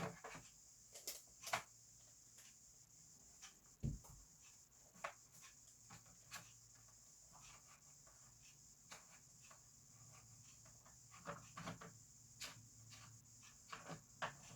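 Faint, scattered clicks and taps of small desk items being handled while rummaging through a drawer of masking tapes, with a soft thump about four seconds in, over a steady faint hiss.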